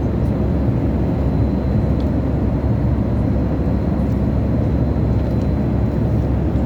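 Steady cabin noise of a Boeing 737 MAX 8 in cruise: an even low rumble of airflow and engines, with a faint high steady tone and a few faint clicks.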